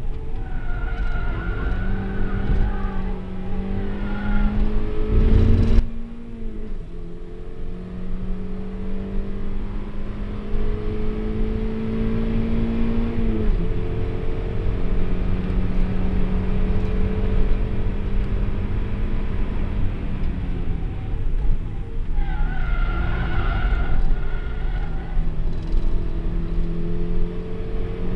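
Standard NA Mazda MX-5's four-cylinder engine heard from inside the cabin, running hard at speed, its note climbing slowly and dipping three times, about a fifth, halfway and three-quarters of the way through. Tyres squeal through corners near the start and again about four-fifths of the way through.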